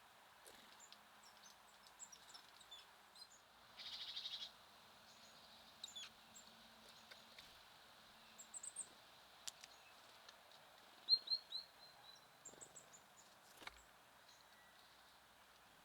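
Small songbirds at a feeder calling over a faint, steady outdoor hiss: scattered short high chirps, a short dense trill about four seconds in, and a quick run of four falling chirps about two-thirds of the way through, the loudest sound. A few sharp clicks are heard among the calls.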